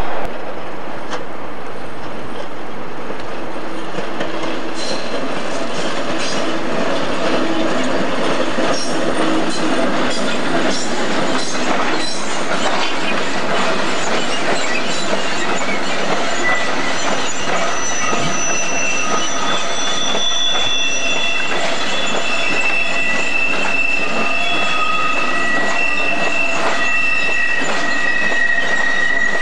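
Diesel-hauled train of coal hopper wagons rolling slowly past, wheels clattering over the rail joints. From about halfway through, high steady wheel squeals set in and keep going.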